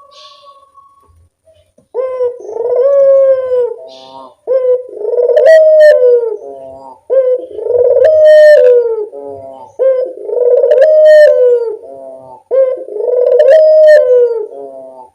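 Ringneck dove (burung puter) cooing: five loud coos in a row starting about two seconds in, one about every two and a half seconds. Each is a drawn-out note followed by a shorter rolling tail.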